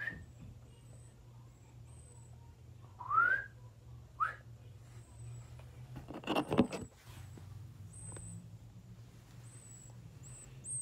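Two short rising whistles, a person's call to the nestlings, about three and four seconds in, while the baby birds give faint, high peeps every second or so. A brief rustle comes about six seconds in.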